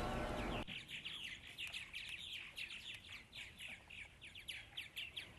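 Small birds chirping, many short, quick, falling chirps overlapping in a dense chatter. Background music cuts off about half a second in.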